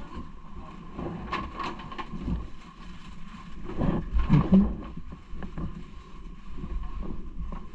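Riding noise on a moving bike: a low rumble with wind on the microphone and scattered rattles and knocks, the loudest about four seconds in.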